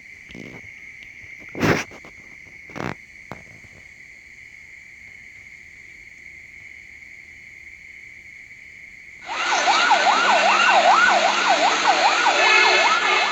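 A steady high-pitched shrill hum with a couple of clicks, then about two-thirds of the way in an emergency vehicle's siren starts loudly in a fast yelp, its pitch sweeping up and down about three times a second.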